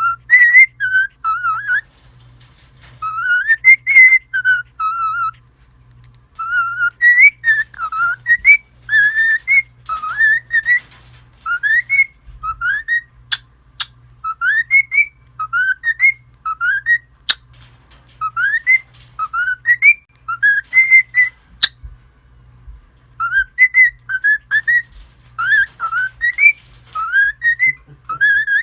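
Cockatiel whistling a tune: a long string of short whistled notes, many sliding upward, broken by a couple of brief pauses, with a few sharp clicks among them.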